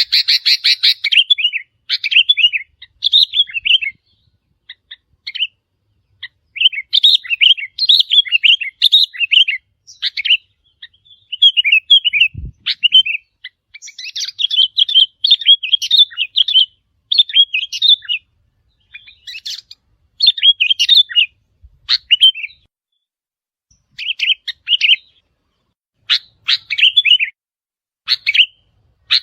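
Sooty-headed bulbul song: loud bursts of quick, bubbly, chattering notes, phrase after phrase with short gaps between them.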